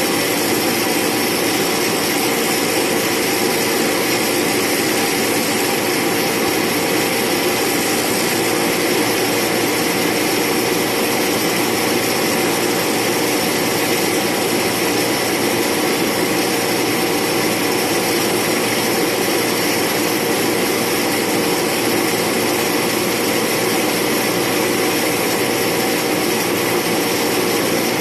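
Pratt & Whitney PT6A turboprop engine of an Air Tractor AT-502 crop duster running steadily, with a constant turbine whine over the propeller drone.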